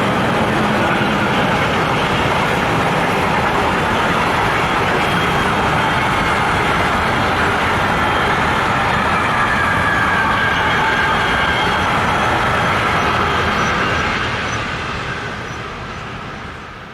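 Train passing close at speed: steady loud rolling of wheels on rails with a high whine held over it, dying away over the last few seconds.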